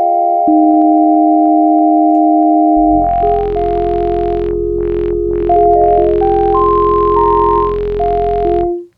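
Layered software synthesizer playing held chords with a moving top line; about three seconds in a deep sub-bass and a hiss-like airy layer join the notes, and everything cuts off just before the end. The wavetable layer is stacked five voices deep and spread across the stereo field.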